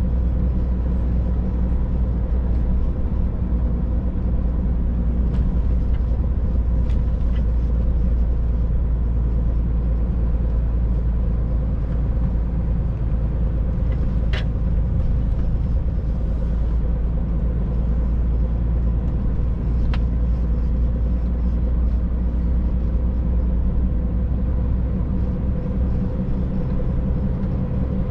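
Scania truck driving along at a steady pace, heard from inside the cab: a continuous deep engine and road rumble with a steady hum, and a few sharp clicks, the clearest about halfway through.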